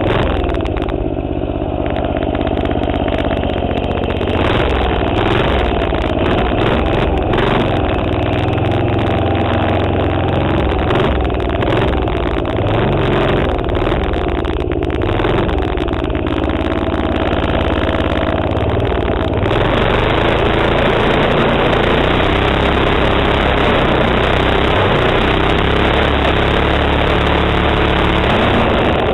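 Small single-cylinder four-stroke Tecumseh 3.5 HP minibike engine running under the rider's throttle, its pitch rising and falling repeatedly. About two-thirds of the way in it settles into a steadier, slightly louder run with more hiss over it.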